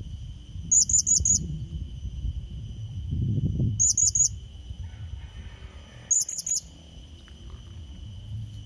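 Blue-crowned hanging parrot (serindit) calling: three bursts of four quick, shrill high-pitched notes, a few seconds apart, over a steady high drone and a low rumble about three seconds in.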